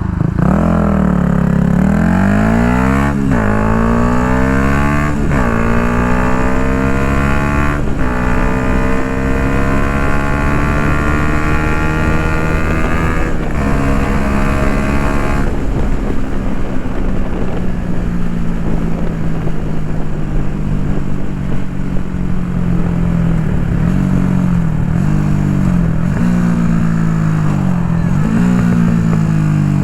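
2016 Yamaha MT-125's single-cylinder four-stroke engine through an Akrapovic full exhaust, accelerating hard through the gears with the pitch climbing and dropping at each upshift, about four shifts. It then settles to a steady cruise, and near the end the throttle is rolled off and reopened a few times.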